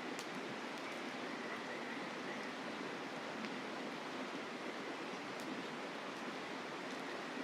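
Steady rushing of a mountain river, with a faint, steady insect trill. A few sharp pops from a wood campfire crackle over it.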